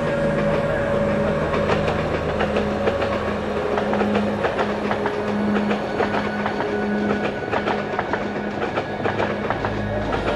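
Diesel-hauled passenger train passing, its wheels clicking rapidly and continuously over the rail joints, over a steady low hum. The clicking thins out near the end as the last coaches go by.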